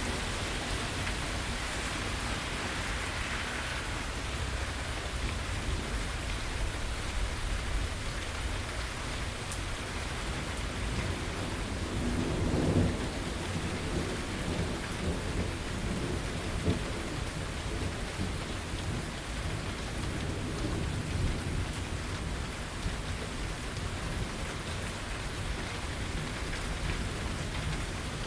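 Steady rain falling, with low rolling thunder underneath that swells into a louder rumble about halfway through.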